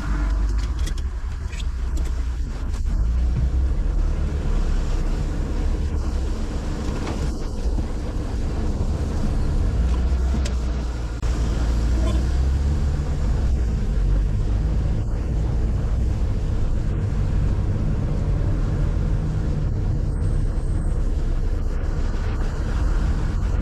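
Car being driven: a steady low engine and road rumble with faint tyre noise and a few brief knocks.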